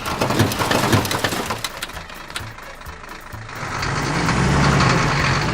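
Cartoon vehicle engine sound effect running steadily, with a stretch of crackling, crunching clicks over the first few seconds, then the engine swelling louder near the end.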